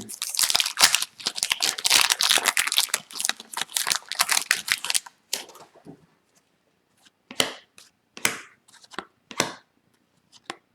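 Foil wrapper of an Upper Deck hockey card pack being torn open and crinkled for about five seconds. Then come a few short, separate swishes as the cards are handled.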